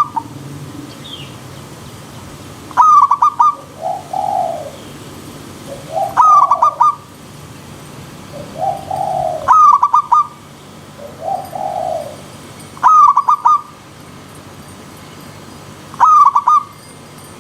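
Zebra doves (perkutut) cooing: a bright, quick staccato coo phrase repeats about every three seconds, with lower, softer coos between them. A steady hiss of river stream water runs underneath.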